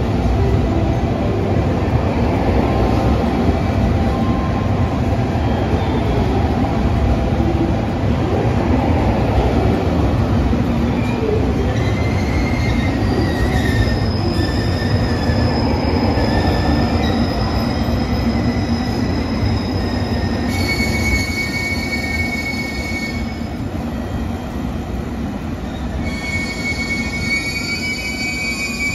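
A train running on the rails, with thin high-pitched wheel squeals that set in about halfway through and come and go. The running noise eases off somewhat in the last third.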